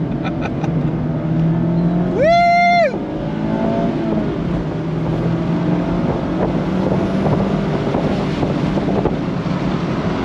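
Mazda MX-5 Miata's 2.0-litre inline-four running steadily on the move, with road noise. About two seconds in, a loud pitched tone cuts over it for under a second.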